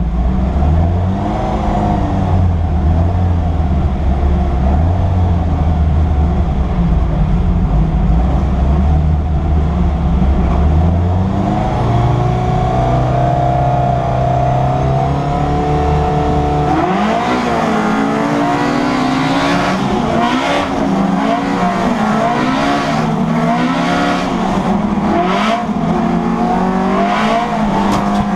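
Citroen Saxo race car's four-cylinder engine, heard from inside the stripped cabin: it runs with the revs wavering while stationary on the grid, is held at higher revs about eleven seconds in, then pulls away about seventeen seconds in, revving up and dropping back repeatedly as it accelerates through the gears.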